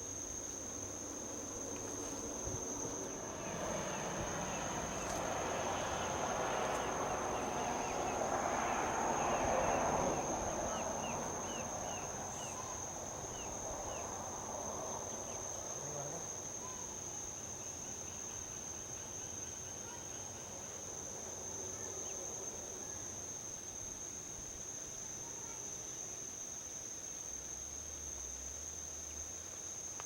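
Steady high insect trill from crickets, with a vehicle passing on the highway: its tyre and engine noise swells to loudest about ten seconds in, then fades away. A run of short high chirps sounds during the swell.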